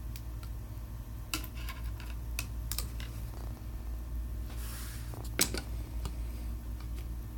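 Scattered light clicks and taps of small tools and plastic phone parts being handled during a smartphone screen replacement, with a brief scraping hiss midway and a sharper click just after, over a steady low hum.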